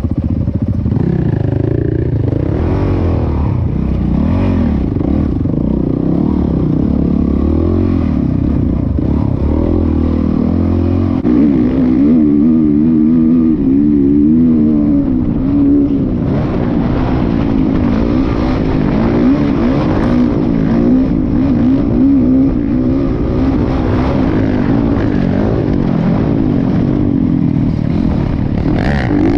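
Dirt bike engine running under load while being ridden, its pitch rising and falling as the throttle is worked.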